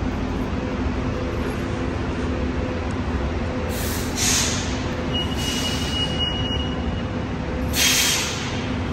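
A train at the station running with a steady hum. Short hisses of air come about four seconds in and again near eight seconds, the second the loudest, and a thin high squeal sounds for a couple of seconds in between.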